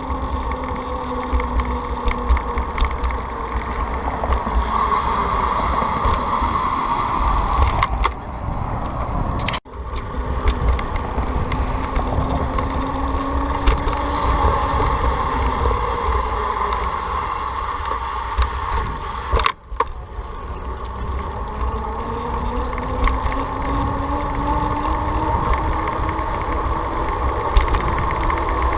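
Heavy wind rumble on the microphone of a moving ride, over a motor note whose pitch climbs slowly and levels off several times. The sound drops out sharply twice, about a third and two thirds of the way through.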